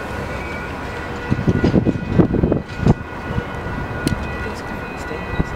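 Passenger train cars rolling past at low speed: a steady rumble with a steady high whine, and a run of irregular clacks from the wheels crossing rail joints about halfway through.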